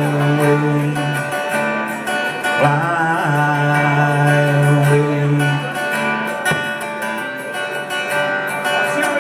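Acoustic guitar playing, with a man's voice singing long held, wavering notes over it.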